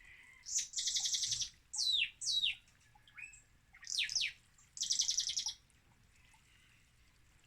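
Songbird singing: two rapid, high trills, with quick downward-slurred whistled notes between them.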